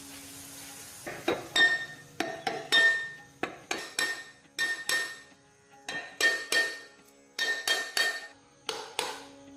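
Hammer blows on metal in a quick, irregular series, about two to three a second, each with a short metallic ring, starting about a second in. This is the kind of hammering used to drive a wheel bearing out or in.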